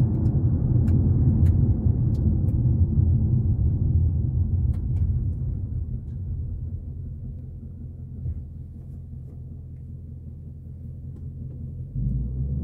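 Cabin sound of a Mustang GT's 5.0 V8 and road noise as the car slows to a stop: the low rumble fades over several seconds to a quiet idle, then rises again near the end.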